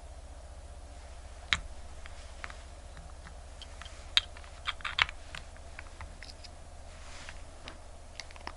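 Small, irregular clicks and taps of hand tools against a wristwatch's case and movement during a battery replacement, with a steady low hum underneath. A cluster of sharper clicks comes around the middle.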